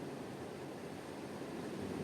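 Ocean surf washing in a steady, even rush, swelling slightly near the end.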